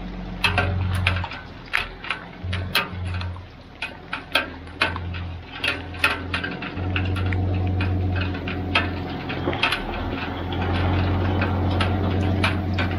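Rain tapping in sharp, irregular ticks close to the microphone, over the low hum of a pickup truck's engine that swells and fades several times as it backs a fifth-wheel trailer uphill.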